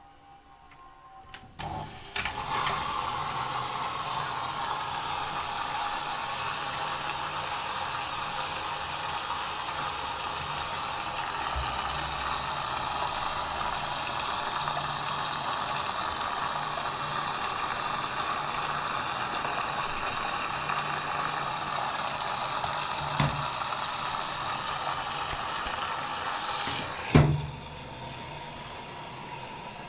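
Philco WE852 washing machine taking in water at the start of its wash program. About two seconds in, the inlet valve opens with a click and water hisses steadily into the machine. Near the end the valve shuts with a clunk, leaving a quieter hum.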